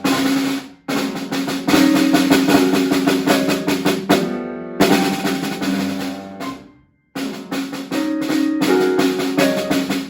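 Snare drum played in rolls and rhythmic strokes, in phrases that break off briefly about a second in and again about seven seconds in.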